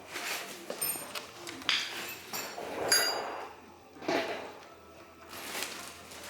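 Metal tools and parts clinking and knocking during the teardown of a Toyota 22R engine: a handful of separate metallic knocks, two of them ringing briefly.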